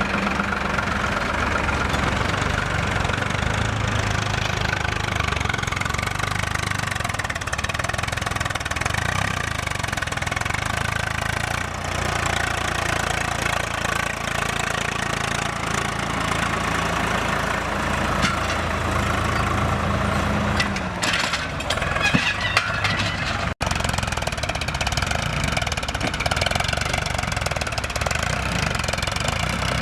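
Heavy vehicle's diesel engine running steadily, with a short break in the sound about 23 seconds in.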